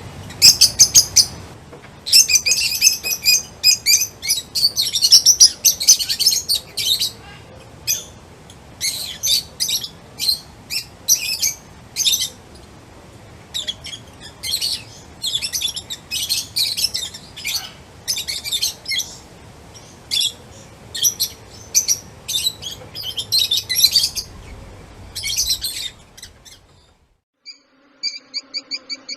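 Birds chirping in quick, high runs of short notes, one call after another. Near the end the chirping cuts out briefly, then a different, evenly repeated call starts.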